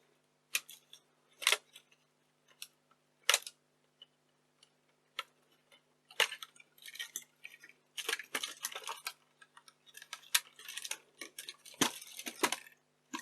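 Clicks, taps and scraping of small plastic and metal camcorder parts being handled as the camera module is slid off the tape deck. There are a few separate clicks at first, then a busier run of clicking and scraping from about six seconds in.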